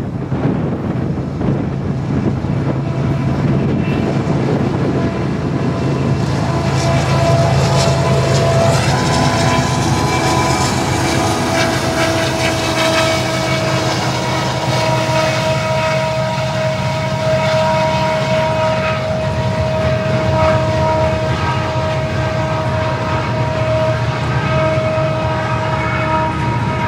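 Union Pacific freight train passing close by: a six-axle diesel locomotive rumbles past, then loaded flatcars roll by with steady wheel-on-rail noise. From about six seconds in, a steady ringing tone sits over the rumble and holds as the cars pass.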